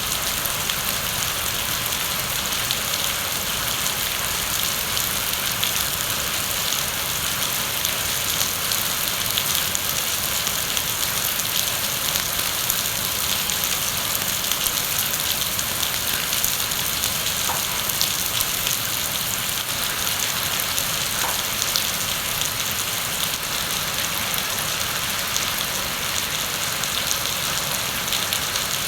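Heavy rain falling steadily, a dense even hiss with fine scattered drop patter.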